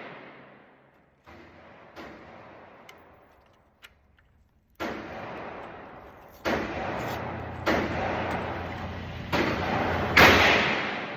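Gunshots fired one at a time at an uneven pace, about seven in all, each with a long echoing tail; the loudest comes near the end.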